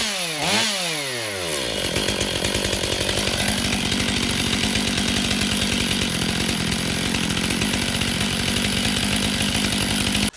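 Stihl MS500i fuel-injected two-stroke chainsaw on its test run after a new piston and cylinder: the revs fall from high speed, blip once briefly, then settle into a steady idle.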